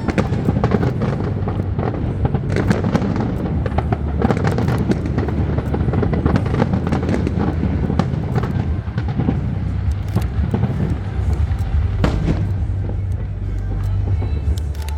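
Fireworks show: a dense, rapid run of bangs and crackles from aerial shells bursting, over a steady low rumble, with music playing underneath.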